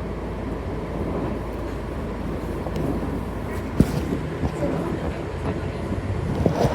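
Inside a moving city bus: steady engine and road rumble, with a sharp knock a little under four seconds in and a few rattling knocks near the end.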